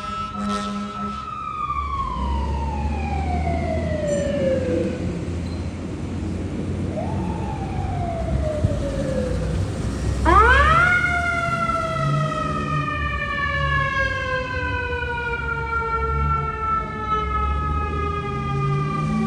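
Fire engine's mechanical siren winding down slowly from a high pitch. It is briefly spun up again about seven seconds in, then spun up sharply to full pitch about ten seconds in and left to coast down again. A truck engine rumbles underneath.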